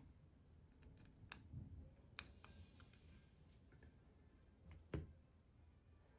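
Faint, scattered clicks of small parts of a Spyderco Stretch 2 folding knife being handled and fitted during reassembly, with a sharper click about five seconds in.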